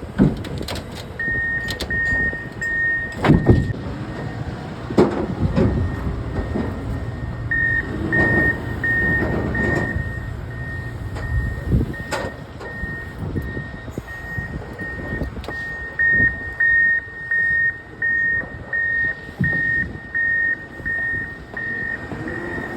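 A reversing vehicle's backup alarm beeping about twice a second. It sounds briefly near the start, then runs again from about a third of the way in. Heavy knocks and clanks and a low engine rumble sound alongside it.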